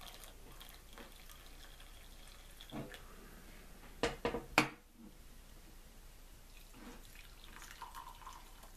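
Hot coffee poured from a stovetop drip coffee pot into a cup, a faint liquid trickle. A few sharp clinks come about four seconds in.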